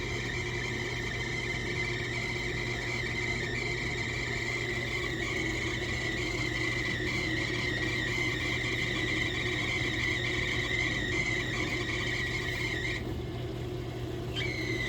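Running dishwasher giving off a steady high-pitched squeal over a low hum. The squeal cuts out about 13 seconds in and returns abruptly a second and a half later.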